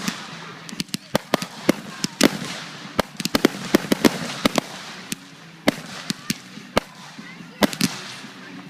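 Fireworks going off: a string of sharp, irregular bangs and crackles, sometimes several in quick succession, over a low murmur of voices.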